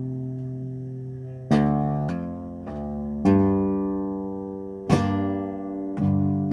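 Acoustic guitar playing a slow instrumental passage with no singing: chords struck and left to ring, a new one about every second and a half, with single notes picked between.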